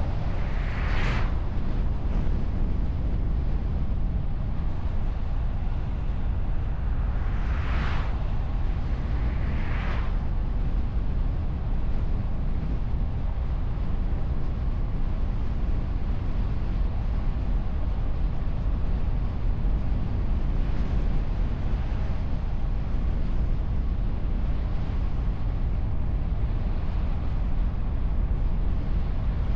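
Steady low rumble of wind and road noise on a hood-mounted camera of a moving car, with short whooshes about a second in and again around eight and ten seconds.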